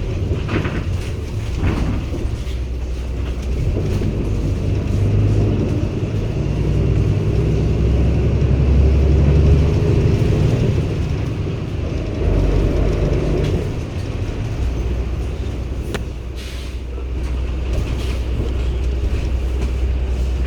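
Cummins ISB 280 PS Euro 6 diesel engine of a 2016 Daewoo NEW BS090 city bus running under way, with the air conditioning off. The engine note swells to its loudest about halfway through, then eases off and settles into a steady run, with a few light knocks and rattles.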